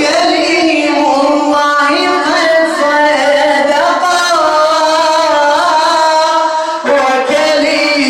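Chanted religious singing in the radood style: a long, ornamented melodic line with wavering pitch, held almost without pause and breaking briefly near the end, with no drums.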